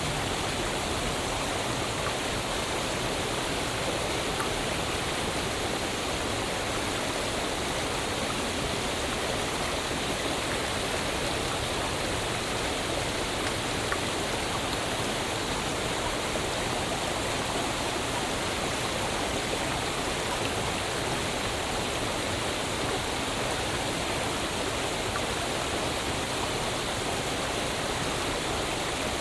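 Waterfall: a steady, unbroken rush of falling water, an even hiss from low to high pitches that does not change.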